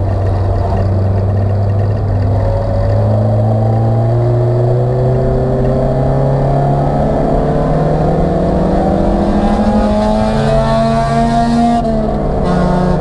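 Acura Integra's four-cylinder engine heard from inside the stripped race car's cabin, pulling hard under full throttle with its pitch rising steadily through one long gear. Near the end the pitch drops suddenly at an upshift and starts climbing again.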